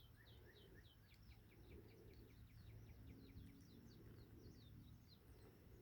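Faint bird chirping: a quick run of short falling chirps, several a second and closer together in the middle, over low steady room hum.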